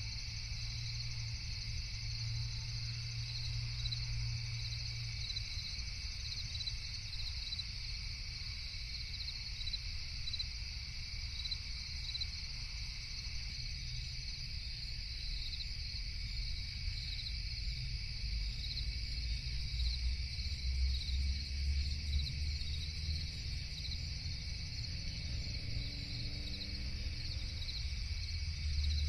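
Night insect chorus of crickets chirping in a steady, rapid pulse, with a low rumble underneath.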